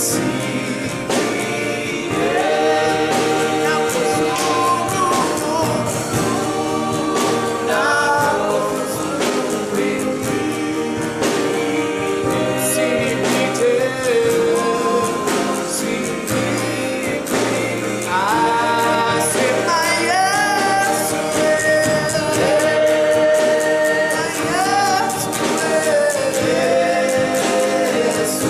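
A group of singers leading a gospel worship song, their voices gliding in melody over a band accompaniment with a steady beat.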